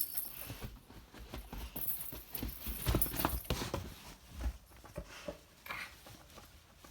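Irregular soft knocks and rustling as a pet's Christmas stocking is handled and its contents are pulled out, with a brief crinkly rustle about two seconds in.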